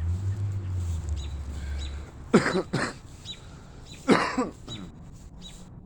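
A man coughing: a quick double cough about two and a half seconds in and another single cough about four seconds in. Faint bird chirps can be heard behind.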